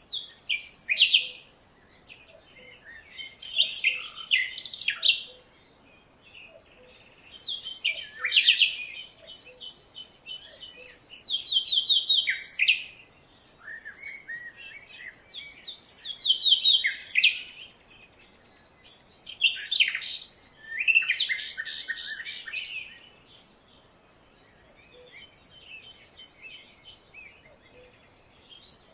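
Songbirds singing: loud bursts of fast chirps and trills come about every three to four seconds, with quieter calls in between.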